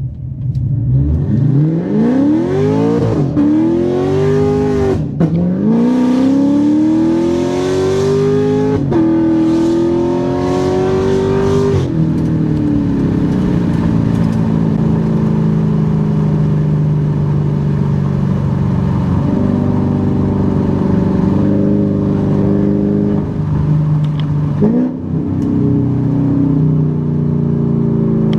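A C7 Corvette Stingray's cammed 6.2-litre V8 with Kooks headers pulls hard through the gears. The engine note rises in several climbs, each cut off by an upshift. About twelve seconds in the revs drop, and the engine settles into a steady cruise with small rises and a short blip of the throttle near the end.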